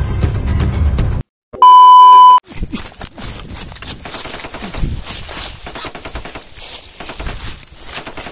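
Background music cuts off about a second in, followed by a loud electronic beep tone lasting under a second. Then come footsteps and rustling through dry leaves and undergrowth, with many short crackles over a steady high hiss.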